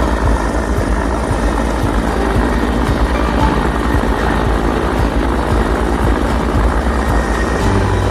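Canadian Forces search and rescue helicopter, its rotor and engine noise loud and steady, with a constant rush and a low, fast beat.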